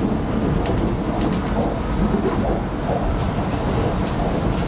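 Cabin noise of an X'trapolis 100 electric multiple unit running along the line: a steady rumble of wheels on track, with a few brief sharp clicks about a second in.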